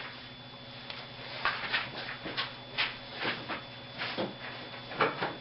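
Writing or drawing strokes on a board: about eight short, scratchy strokes at an uneven pace.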